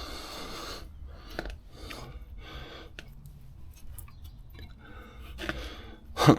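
Hand tools and metal parts being worked at a brake caliper: irregular scraping and handling noises with sharp metal clicks, the loudest click near the end, as the caliper slide pins are worked on. One of the slide pins is seized.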